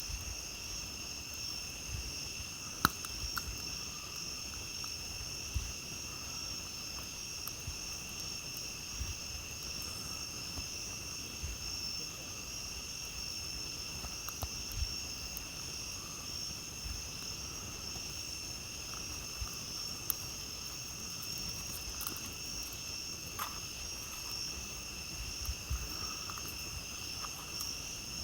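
A steady, high chorus of night insects, with scattered short crackles and pops from a campfire. The sharpest pop comes about three seconds in.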